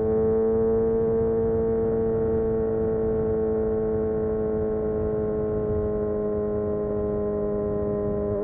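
Kawasaki Ninja ZX6R inline-four engine and exhaust running at steady cruising revs under way, the pitch held nearly constant and sagging only slightly.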